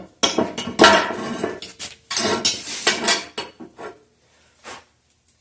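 Metal objects clattering and scraping against each other as they are handled, in two busy bursts about two seconds apart, followed by a couple of lighter single knocks.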